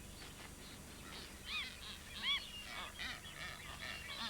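Birds calling: short, arching honk-like calls, repeated several times from about a second and a half in, over a faint background.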